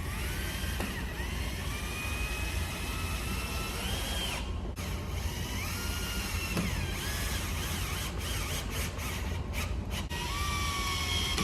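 Power drill driving screws into wood, its motor whine rising, holding and dropping in pitch over several runs, with a short break about four and a half seconds in and a few clicks near the end.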